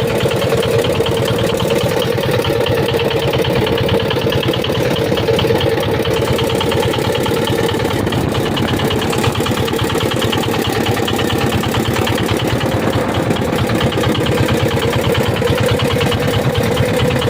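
Small fishing boat's engine running steadily under way, a fast, even chugging that does not change, as it tows a second boat whose engine has broken down.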